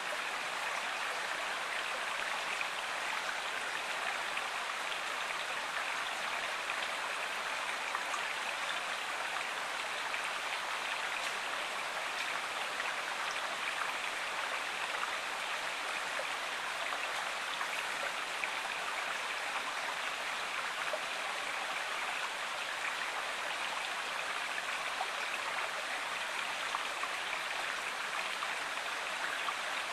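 A stream or river running steadily: an even, unbroken rush of flowing water.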